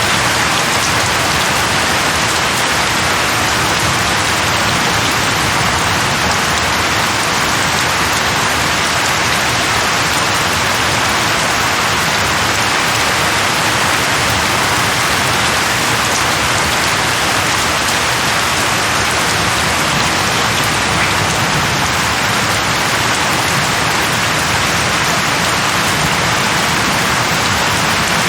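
Steady, even rainfall, a constant loud hiss of rain falling on a surface.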